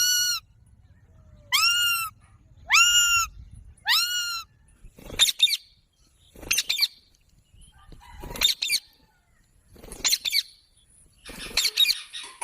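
A parrot calling over and over: about eight loud, shrill calls, the first four drawn out and arching in pitch, the later ones shorter and choppier, coming roughly every one to two seconds.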